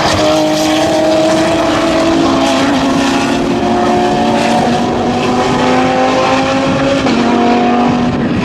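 Several GT3 and GT4 race car engines running hard, their notes overlapping and slowly rising in pitch; one note steps down about seven seconds in.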